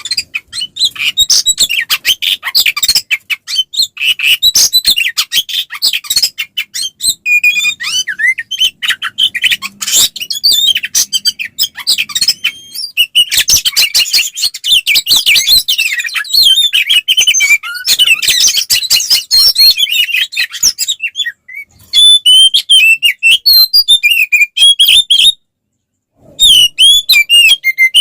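Oriental magpie-robin (kacer) singing a fast, continuous fighting-mood song of chirps, whistled glides and harsh clicking notes, the agitated 'ngeplong tarung' song used to provoke other magpie-robins. It breaks off for about a second near the end, then resumes.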